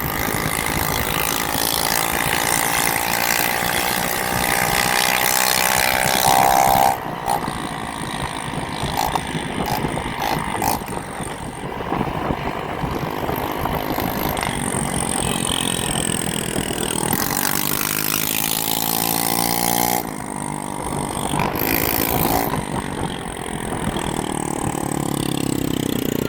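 Vehicle engines revving, their pitch climbing in two long rises, over steady road and wind noise while riding in traffic.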